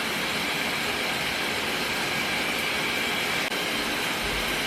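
Shower water running: a steady, even rush of spray.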